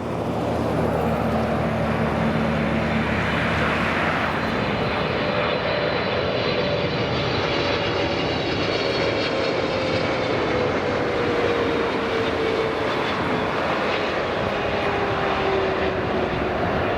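Boeing 777F jet engines passing close on arrival: a steady jet roar with whining tones that slide slowly downward as the aircraft goes by.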